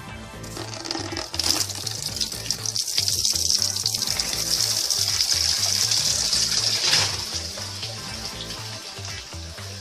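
A loud hissing rush, like running water or a flaring fire, builds about a second and a half in and fades after about seven seconds, over background music with a repeating bass beat.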